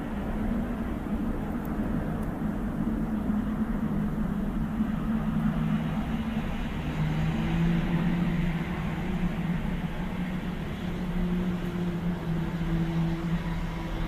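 Low droning hum made of a few sustained tones over a rushing hiss, its main tone dropping lower about halfway through: one of the widely shared unexplained 'strange sounds in the sky', with no plane in sight.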